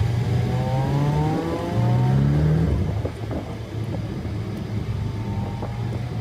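Car engine accelerating hard on track: its pitch climbs, resets at a gear change about a second and a half in, climbs again, then drops off about three seconds in and runs lower and steadier. Heavy wind noise on the microphone sits under it throughout.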